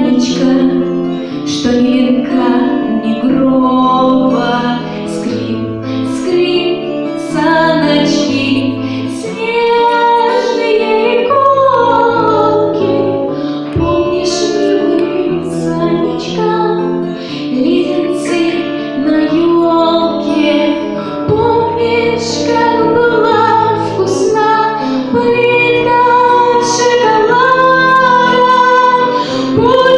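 A woman singing a children's song over instrumental accompaniment.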